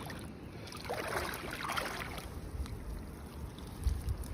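Shallow seawater trickling and sloshing among the rocks, with a brief low thump about four seconds in.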